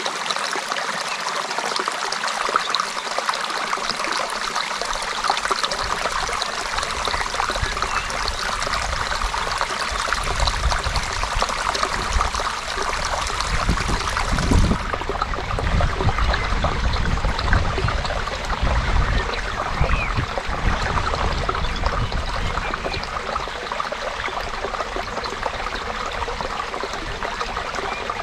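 Creek water flowing steadily with a continuous trickling rush. A deeper low rumble joins about six seconds in.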